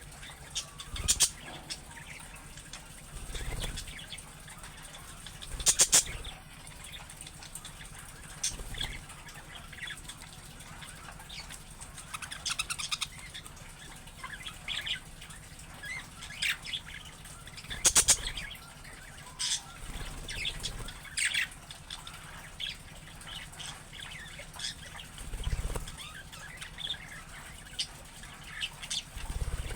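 Budgerigars chirping and warbling in short, scattered calls. There are several loud sudden flutters, about a second in, near six seconds and near eighteen seconds, and a few low thumps.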